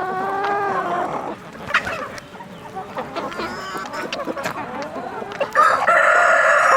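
Chickens clucking and calling, with a loud, long, steady call near the end.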